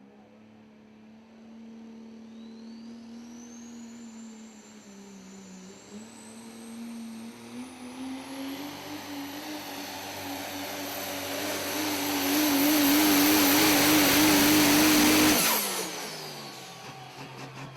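Super stock diesel pulling truck's engine running hard under load, with a high turbocharger whistle rising in pitch as it grows steadily louder. About fifteen seconds in, the sound cuts off suddenly.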